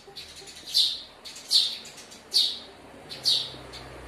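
A bird chirping over and over: short, high, falling chirps at a steady rate of about one every 0.8 seconds.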